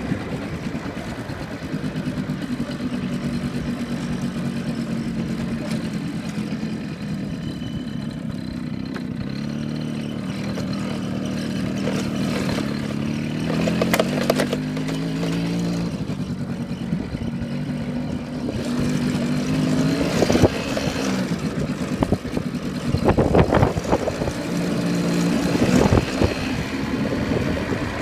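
Yamaha R1 motorcycle engine running under way, its pitch climbing as it accelerates about halfway through and again several times later. A few sharp knocks come near the middle and toward the end.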